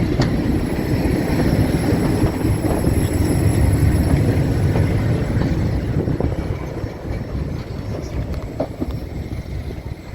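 Heritage diesel train running past with a low rumble and a few sharp clicks from the wheels, fading away over the last few seconds.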